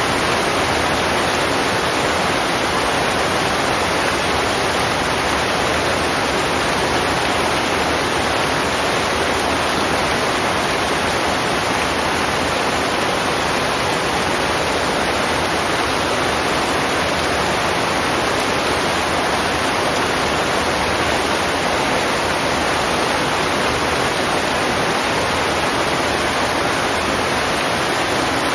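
Heavy rain falling, a steady, even hiss with no single drops or other sounds standing out.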